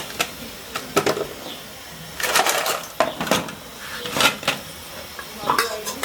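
Crisp fried cassava pieces and a metal utensil clattering and scraping against a cooking pan in irregular bursts.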